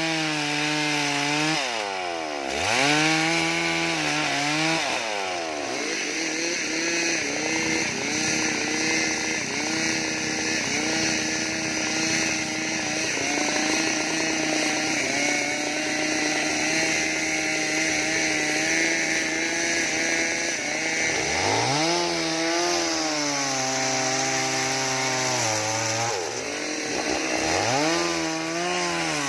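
Two-stroke chainsaw carving wood: the engine revs up and down a few times, then is held at high revs while cutting for about fifteen seconds, and drops back and revs again toward the end.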